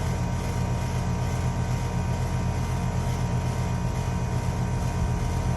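Air conditioning unit's compressor running with a steady low hum, which the technician takes for a compressor with bad valves that is not pumping refrigerant properly, leaving the suction pressure high.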